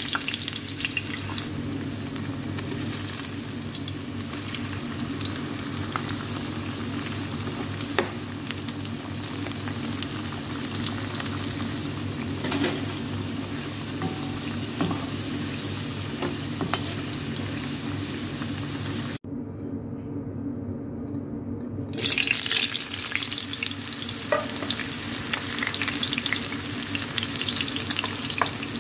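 Potato slices deep-frying in hot oil: a steady sizzle with scattered crackles over a low steady hum. After an abrupt cut about 19 seconds in, the sizzle is muffled for a few seconds. From about 22 seconds it turns louder and more crackly as pieces of eggplant fry.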